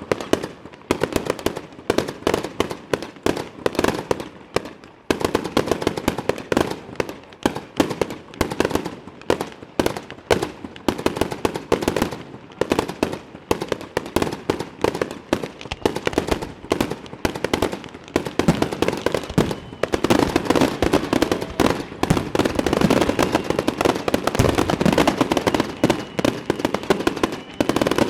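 Fireworks display: a rapid, unbroken barrage of bangs and crackles from many shells going off, growing denser and louder about two-thirds of the way through.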